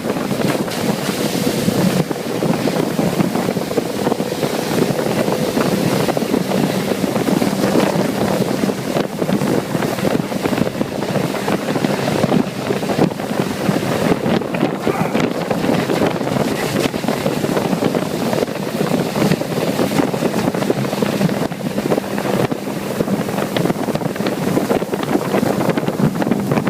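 Tow boat's engine running steadily at speed under heavy wind buffeting the microphone, with rushing water.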